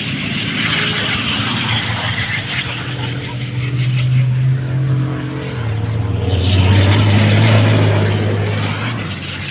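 Race truck engine droning as it runs on the track, its pitch dropping about halfway through as it gets louder, then easing off near the end.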